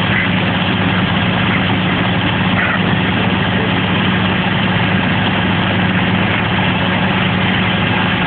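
A vehicle engine idling steadily, with an even low hum that does not change.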